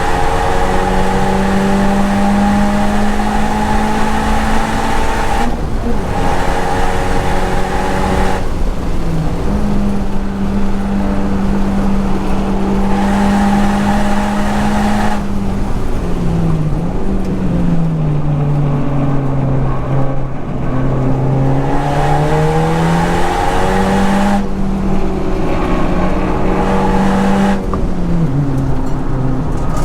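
Honda Civic Type R's turbocharged 2.0-litre four-cylinder engine running hard at high revs, with short breaks at gear changes. About halfway through the revs fall and then climb back up.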